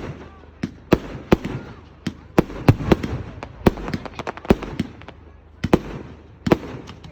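Fireworks display: a rapid, irregular series of sharp bangs from bursting shells, about three a second, each with a short echo.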